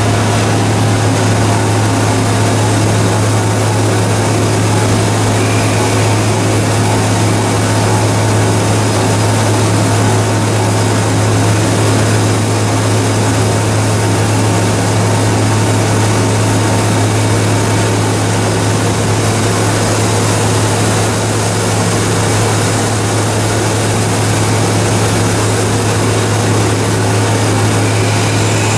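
Two-stage plastic recycling machine running steadily: a loud, constant low hum under an even mechanical whirring noise that does not change.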